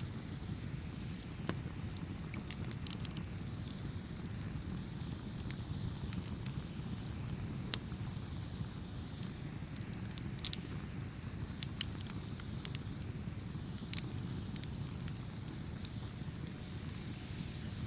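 Campfire burning: a steady low rumble of flames with scattered sharp crackles and pops from the burning wood, a few louder snaps now and then.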